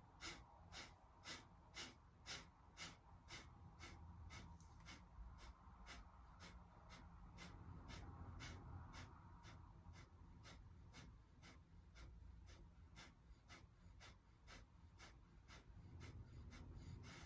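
Kapalabhati breathing: a steady run of short, forceful exhales through the nose, about two a second, faint.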